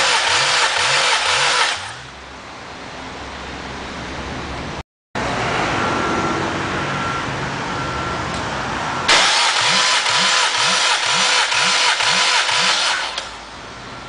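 Honda K20A four-cylinder engine spun over by its starter motor for a compression test, cranking without firing: a steady starter whine over a rhythmic pulse about three times a second. The cranking stops about two seconds in, then starts again about nine seconds in and runs for about four seconds.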